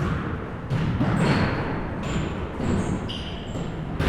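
A basketball bouncing on a gym's hardwood floor, a few bounces about a second apart. Brief high sneaker squeaks come between them, over a murmur of a large room.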